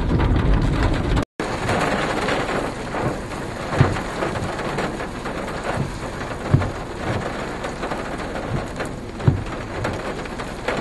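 Rain and wind of a tornadic thunderstorm around a storm chaser's vehicle: a steady hiss with a few brief low thumps. The sound cuts out for a moment about a second in.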